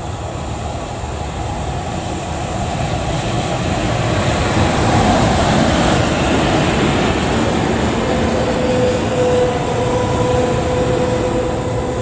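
A train passing on the tracks, getting louder toward a peak about five seconds in. A steady whine comes in about eight seconds in.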